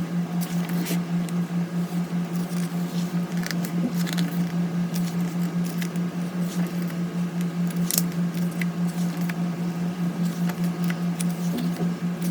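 A photo book being leafed through by hand: scattered small clicks and paper rustles over a steady low hum that pulses evenly in loudness.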